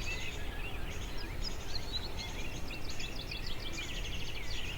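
Several songbirds chirping and singing quick trills, overlapping throughout, over a steady low rumble.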